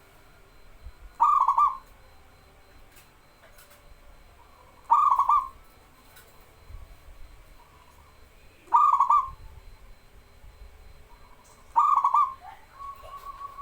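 Zebra dove (perkutut) cooing: four short rolling coo phrases, one every three to four seconds. A thin, steady whistle-like tone starts near the end.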